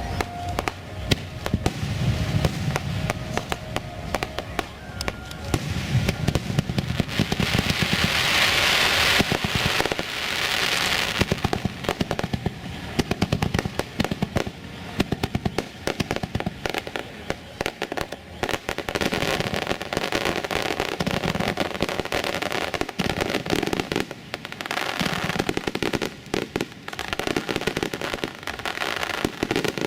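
Aerial fireworks display: shells bursting in a continuous series of sharp bangs and pops. About eight seconds in, a few seconds of dense crackling hiss.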